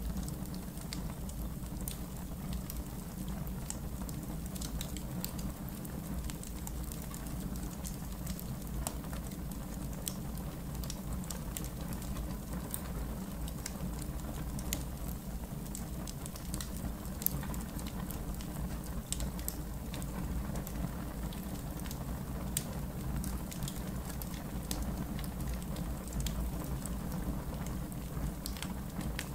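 Wood fire in a backyard fire pit crackling, with many scattered sharp pops and snaps over a steady low rumble.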